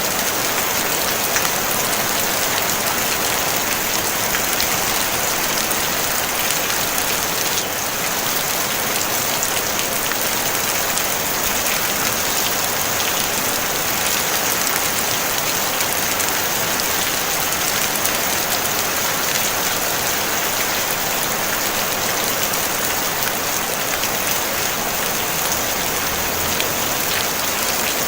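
Steady rain falling on a tin roof: a dense, even hiss made of countless small drop strikes, heaviest in the treble.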